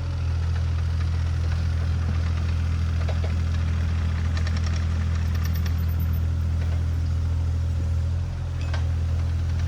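Diesel engine of a piece of compact earthmoving equipment idling steadily with a low, even hum, dipping briefly about eight seconds in.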